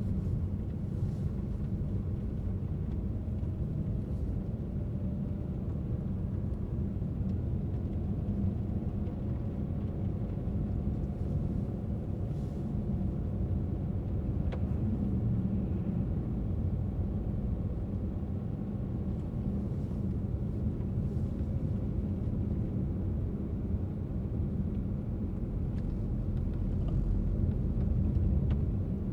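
A car driving along, a steady low rumble of tyres and engine, with a single faint tick about halfway through.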